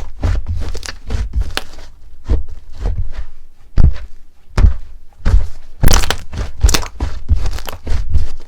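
Slime being squeezed and pressed by hands, giving irregular sticky clicks and pops mixed with dull thuds, several to a second.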